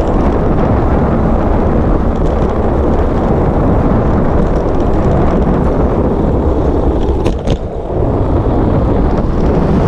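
Wind rushing over a GoPro's microphone on a moving bicycle: a loud, steady rumble that eases briefly about seven and a half seconds in.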